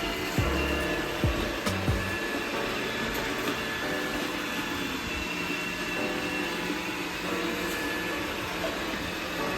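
iRobot Roomba 960 robot vacuum running: the steady whir of its motor and brushes. There are a few low thumps in the first two seconds.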